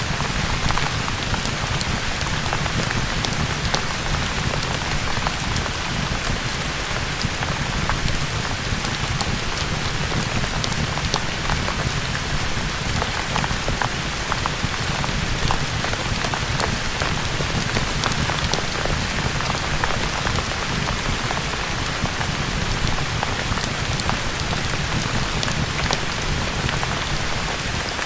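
Steady rain, a continuous even hiss with a low rumble underneath, scattered with many small sharp ticks.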